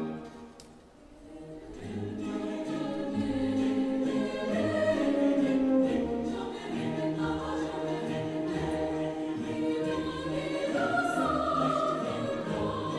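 Choir singing. It comes in about a second and a half in, after the previous piece fades to a brief lull, and carries on at a steady level.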